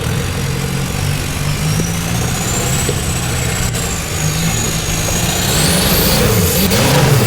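Off-road 4x4 engine revving up and down in repeated surges as it works on a muddy hill climb. A thin high whistle climbs in pitch near the end.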